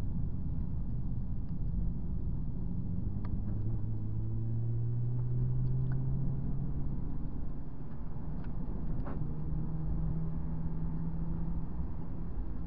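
Honda Civic Type R FD2's 2.0-litre four-cylinder engine heard from inside the cabin, the revs climbing steadily for a few seconds as the car accelerates, then dropping and holding at a steady pitch, over constant tyre and road noise.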